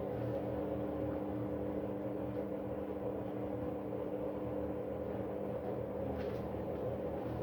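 Arctic washing machine running in service mode: a steady mechanical hum with several held tones and a low pulsing drone, a noise the owner calls bad.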